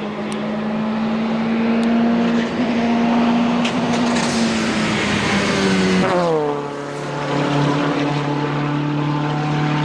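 A hillclimb race car's engine running hard at high revs, growing louder as it approaches. About six seconds in, the engine note drops sharply in pitch as the car passes, then carries on at a steady lower pitch.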